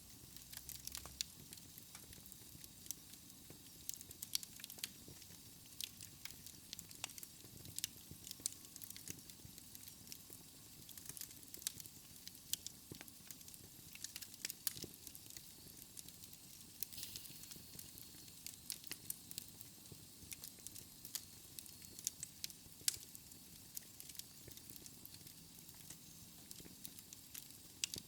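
Wood fire burning in a fireplace: a soft steady hiss with frequent small, sharp crackles and pops at irregular intervals.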